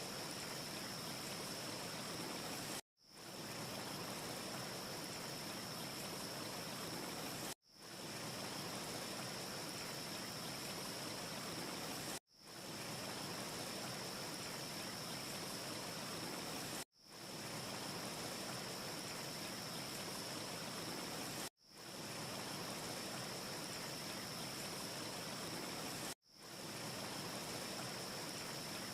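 Steady rushing ambience noise with a high hiss, no crackle in it, cut to silence for an instant about every four and a half seconds and fading straight back in: a short ambience loop repeating with gaps.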